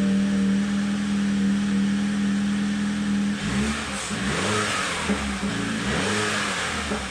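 BMW X1 engine running steadily at idle, then revved in about four quick blips from about halfway through, the pitch rising and falling with each.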